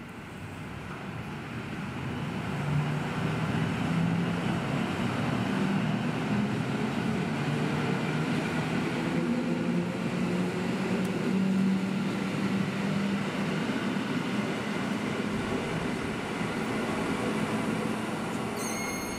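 Electric passenger train running past along the platform close by. Wheels on rail with a steady hum from the train, growing louder over the first few seconds and then holding as the carriages pass.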